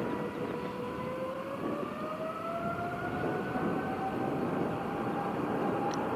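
Jet airliner's engines, with a whine that rises in pitch over the first few seconds and then holds steady over a broad rumble.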